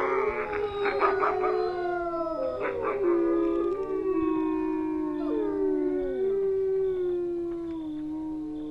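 A pack of wolves howling in chorus: several long howls overlap, each sliding slowly in pitch. Short yips break in during the first second or so and again about three seconds in.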